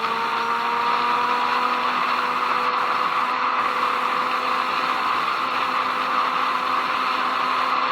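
Motorcycle riding at speed: a steady rush of wind noise over the engine, whose note rises slowly and evenly as the bike gains speed.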